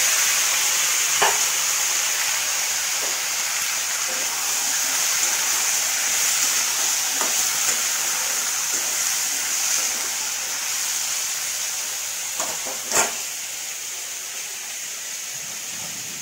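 Sliced potatoes and onion sizzling in hot oil in an aluminium kadai, a steady frying hiss that gradually dies down as they cook. A few clinks of the metal spatula stirring them, the loudest about 13 seconds in.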